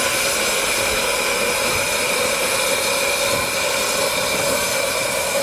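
Steam locomotive hissing steadily, a loud even hiss with a few high steady tones in it.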